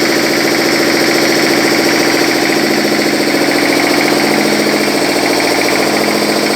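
Diesel engine running steadily at a constant speed, with a fast, even clatter.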